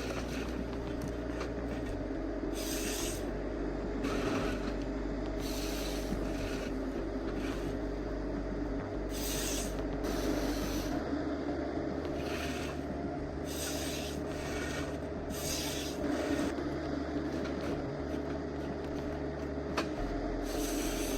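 Heavy timber-handling machine running steadily, with short bursts of hiss every few seconds.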